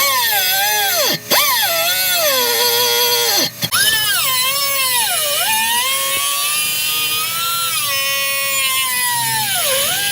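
Handheld power tool cutting through a steel exhaust pipe to delete the muffler. Its motor whine drops in pitch as it bogs under load and recovers, stopping briefly about a second in and again at about three and a half seconds as the trigger is released and pressed again.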